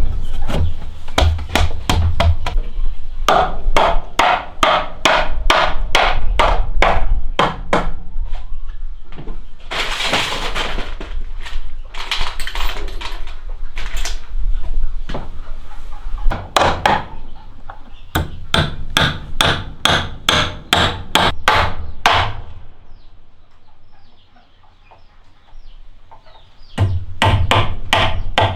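Hammering: fast runs of sharp blows, about three to four a second, with a pause late on. A longer burst of rushing noise comes about ten seconds in.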